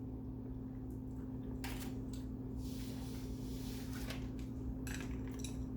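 Chewing kimbap: soft, scattered mouth clicks and wet smacks over a steady low hum.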